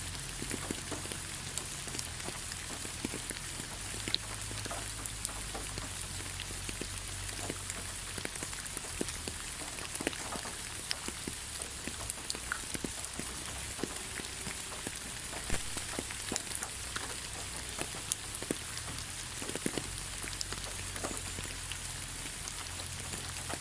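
Steady rain falling, with a continuous hiss and many scattered individual drop taps.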